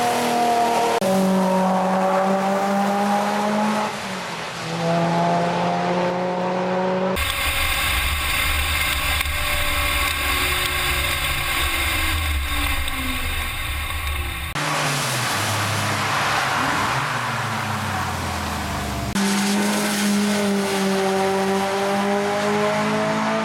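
Car engines on a race track, in several sections that change abruptly. An engine climbs in pitch as it accelerates, drops at a gear change about four seconds in and climbs again, and the same rising pattern returns near the end. In the middle there is a steadier drone, with pitch falling as a car goes past.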